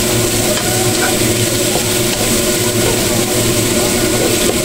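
Green bell pepper strips and garlic sizzling in oil in a wok while being stirred with a spatula, over a steady background hum.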